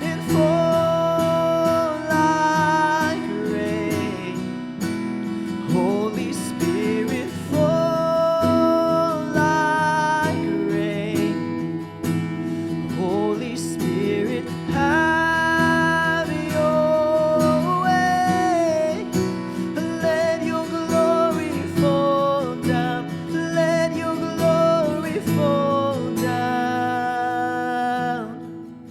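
Acoustic guitar strummed steadily, with a melody of long held, gliding notes above it.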